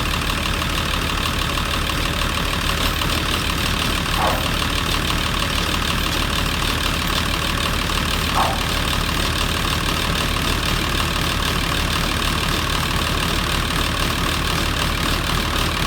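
Allis-Chalmers 185 tractor engine idling steadily, still cold just after a cold start in freezing weather, with two brief chirps about four and eight seconds in.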